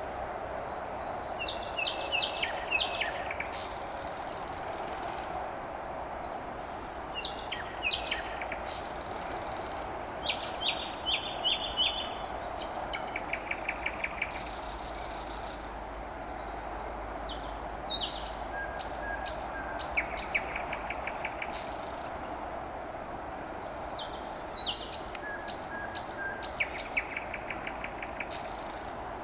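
Nightingale singing in short, varied phrases separated by pauses: sharp whistles, clicks and fast rattling trills. Under the song runs a steady hum of distant highway traffic.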